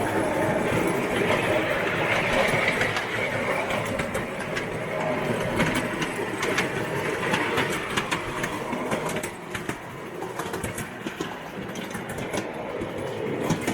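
Garden railway train running along the track, its wheels clicking over the rail joints, with people talking in the background.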